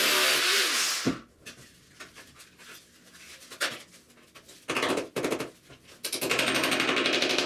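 Power drill drilling holes for dowel-nails through drywall into the wall: it runs loud and steady and stops about a second in. After short bursts, a rapid run of even impacts near the end is the drill boring again.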